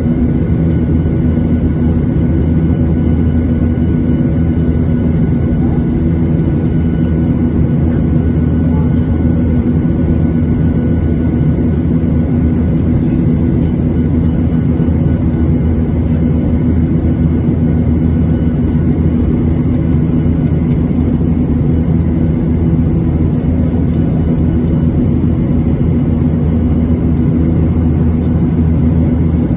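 Steady drone of a Boeing 737-800's CFM56 turbofan engines heard inside the cabin: a deep rumble with a constant hum on top.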